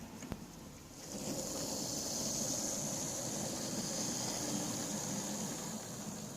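Lima OO-gauge Class 40 model diesel locomotive running on its track: the small electric motor gives a steady high whine over a rumble of wheels on rail, setting in about a second in and easing off near the end.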